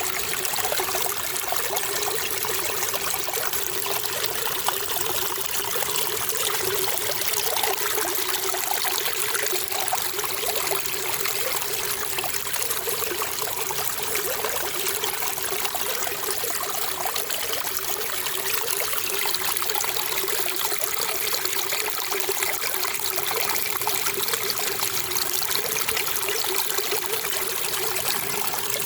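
Running water trickling and splashing steadily, with a continuous even hiss and no change in strength.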